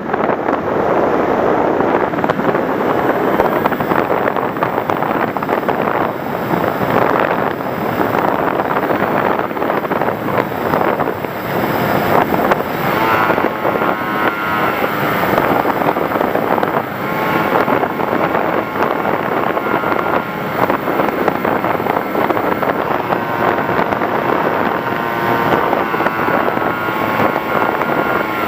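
Wind rushing over the microphone of an FPV Raptor model plane in flight, steady and loud. A faint motor whine comes through about halfway through and again near the end.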